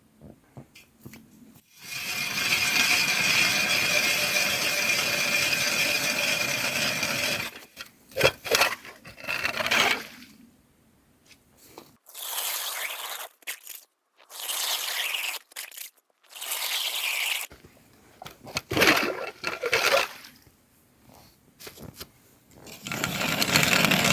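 Scraping and grinding at lake ice as a hole is cut for water: one long grind of about five seconds a couple of seconds in, then several shorter ones.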